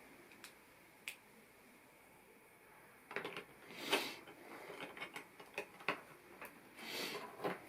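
Plastic LEGO pieces being handled and snapped together: two sharp clicks in the first second or so, then from about three seconds in a run of clicks and light clatter as parts are sorted and pressed on.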